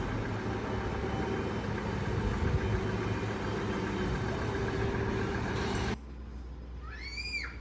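Train running with a steady rumble, which cuts off abruptly about six seconds in. A quieter background follows, with one short rising-then-falling chirp near the end.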